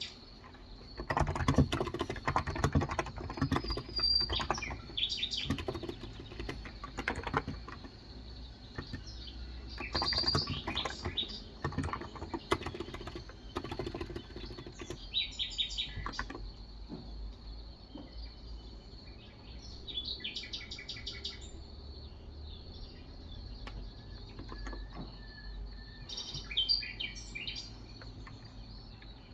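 Typing in bursts on a Cox Endeavor 35 g electrostatic capacitive tenkeyless keyboard, the keystrokes densest in the first half. Birds chirp in short phrases every few seconds throughout.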